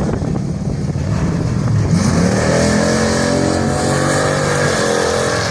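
Car engine accelerating hard at a drag strip: about two seconds in the pitch climbs steeply and keeps rising, with a brief drop near the end as it shifts gear.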